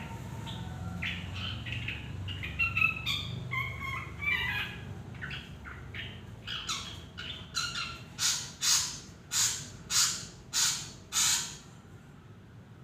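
Drongo calling: a run of varied whistles and chirps, then a series of about eight loud, harsh calls roughly half a second apart, which stop about a second before the end.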